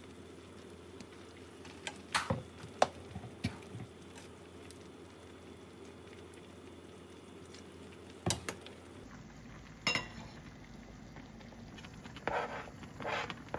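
Kitchen handling sounds: a few sharp clicks and knocks of dishes or utensils over a steady low hum, with brief rustling near the end.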